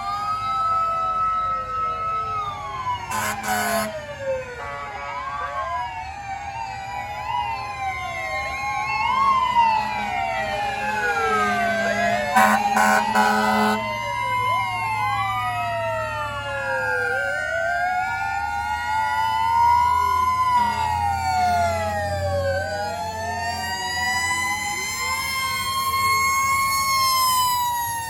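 Several fire truck sirens wailing at once, their rising and falling tones overlapping, with short blasts of a horn about three seconds in and again around twelve seconds in. A low engine rumble comes up in the second half as the trucks pass.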